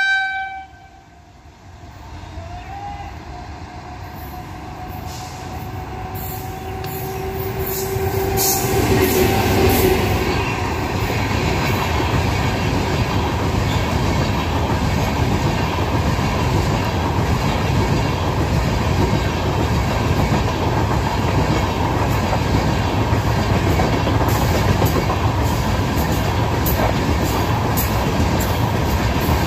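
Indian Railways express train approaching and running past at speed without stopping: a rising rumble over the first ten seconds or so, then loud, steady running noise of the coaches with rapid clicks of wheels over rail joints.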